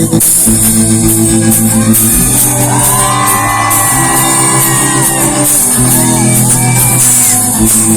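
Rock band playing live at full volume, low sustained bass and keyboard notes changing every couple of seconds, with the audience shouting and whooping over it.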